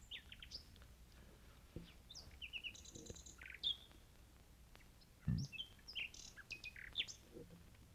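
Small birds chirping and tweeting in quick, varied short calls, with a dull low thump about five seconds in.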